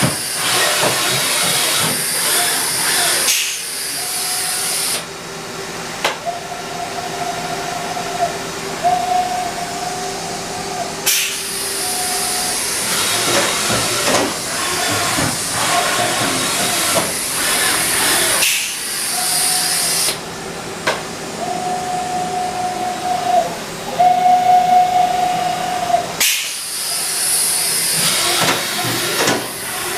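Haas VF-3SS CNC vertical machining center running, with a loud steady hiss. A humming tone starts and stops several times, and the sound changes abruptly at several points.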